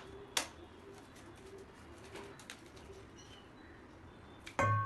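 A bird cooing faintly in repeated low calls, with a single click about half a second in. A short, louder sound comes in near the end.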